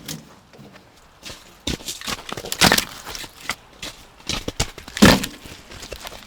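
A series of irregular knocks and thuds, the loudest about two and a half and five seconds in.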